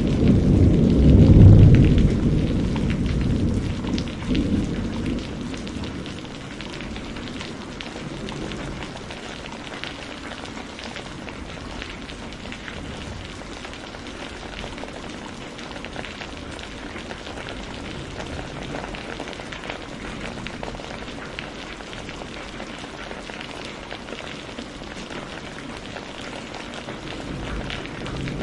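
Steady rainfall pattering on surfaces, with a low rumble of thunder in the first few seconds that fades away, leaving the even hiss of the rain.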